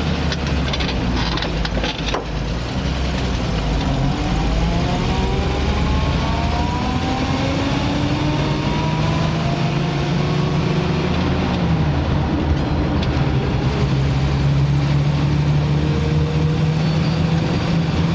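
Car engine and road noise heard from inside the cabin while driving. The engine note climbs slowly as the car pulls, drops about twelve seconds in, then holds steady. There are a few knocks near the start.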